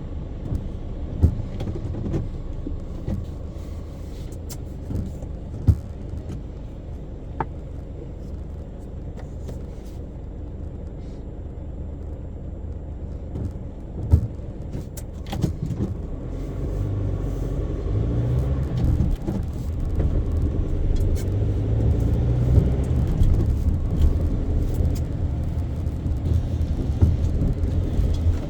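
Car driving through city traffic: a steady low engine and road rumble that grows louder about halfway through, with a few sharp knocks.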